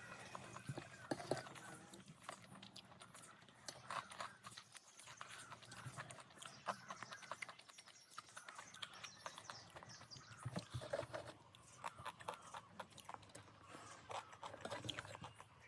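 Close-up eating sounds: chewing with wet mouth clicks and lip smacks, many short irregular clicks.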